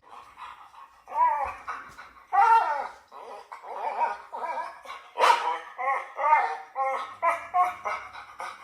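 A dog giving a rapid series of short, high calls, each falling in pitch, starting about a second in.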